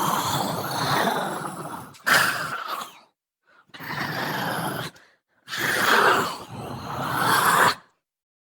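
Horror-style sound effect of breathy, creature-like groans: four of them, the second shorter than the rest, each cut off sharply into dead silence.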